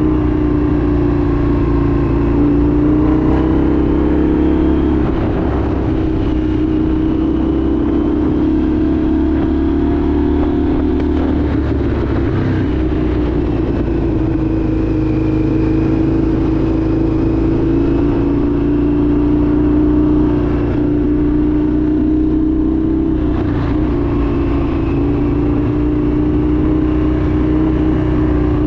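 Indian FTR 1200's V-twin engine running under way, its note rising and falling gently with the throttle, with a brief dip about twelve seconds in.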